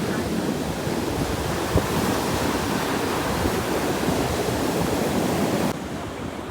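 Sea waves washing on the shore, with wind buffeting the microphone. The sound drops abruptly in level near the end.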